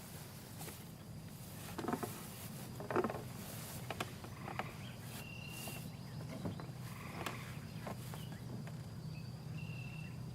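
Outdoor nature ambience: a faint steady low hum with scattered rustles or steps, and two brief high, steady whistle-like animal calls, one about five seconds in and one near the end.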